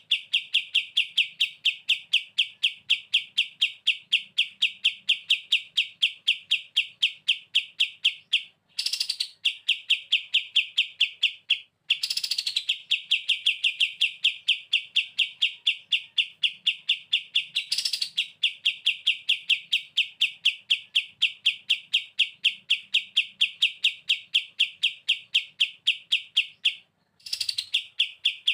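Kapas tembak bulbul singing its rapid rattling 'bren' call: fast, even pulses in long unbroken runs, broken by a few short pauses, with a brief higher sweeping note at some of the breaks.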